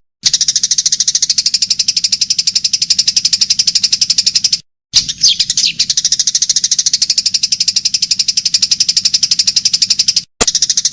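A recorded animal call played on a loop as a masteran for training a songbird: a loud, very fast, steady pulsing trill, high-pitched. It cuts out briefly three times, and a short falling chirp is heard about five seconds in.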